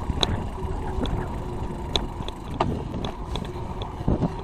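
Riding a road bicycle: steady wind buffeting on the microphone and road rumble from the tyres, with scattered light clicks and rattles.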